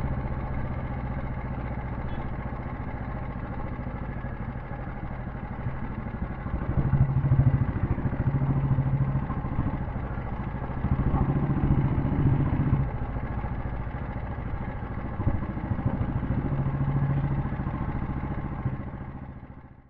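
Royal Enfield Bullet 350's cast-iron single-cylinder four-stroke engine running on the move, its exhaust pulsing rapidly. It swells louder a few times as the throttle opens, then fades out near the end.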